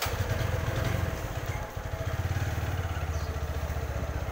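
Motorcycle engine running just after being started: a rapid, steady low pulsing, a little louder for the first second and a half, then even as the bike moves off at low speed.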